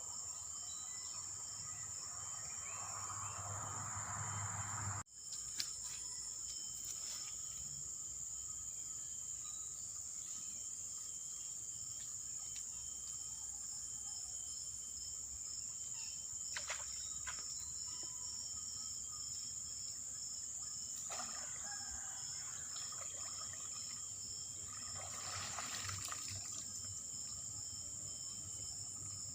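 Crickets chirring steadily in a continuous high-pitched drone, with faint water trickling in the first few seconds. The sound drops out for an instant about five seconds in.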